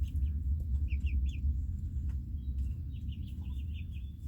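Young chickens chirping: a group of three short chirps about a second in, then a quick run of about seven near the end, over a steady low rumble.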